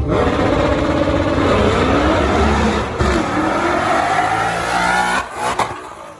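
A race car's engine at full throttle, its pitch climbing steadily for several seconds as it accelerates hard, then dropping off suddenly about five seconds in, with one short final burst.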